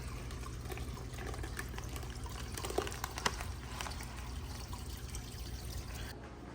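Water trickling and splashing into a fish tank as small fish are let in from their acclimation bag, ending suddenly about six seconds in. A low steady hum runs underneath.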